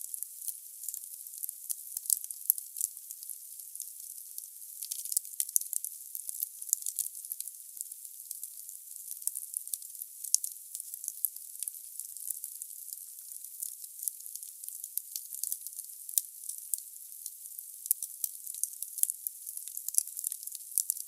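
Wood burning in a fireplace: the logs crackle and pop irregularly, several sharp snaps a second, over a steady hiss of the fire. The sound is thin and high, with no low roar.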